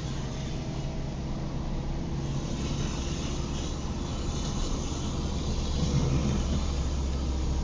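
Car driving in the rain, heard from inside the cabin: a steady low engine and road rumble under an even hiss of wet tyres and rain.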